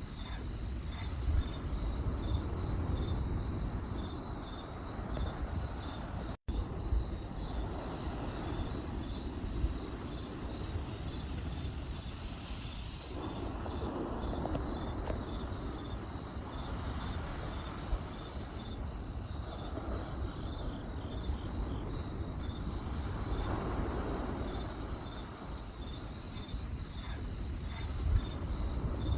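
Crickets chirping in a steady, fast pulsing trill over the low rumble of a campfire, with a few sharp crackling pops from the burning wood.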